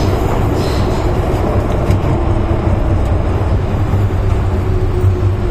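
MTR M-Train electric multiple unit running along the Tseung Kwan O Line: a steady, loud running noise with a strong low rumble and a faint steady tone above it.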